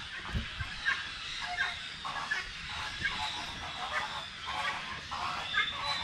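Birds calling: many short calls repeating irregularly, several a second, with a low thump about half a second in.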